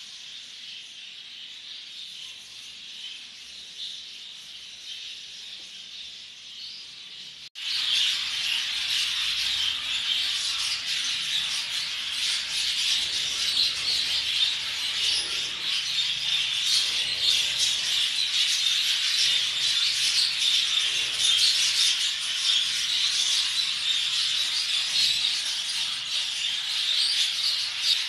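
Many exhibition budgerigars chattering and warbling together in a continuous high-pitched din. A sudden cut about seven and a half seconds in, after which the chatter is louder.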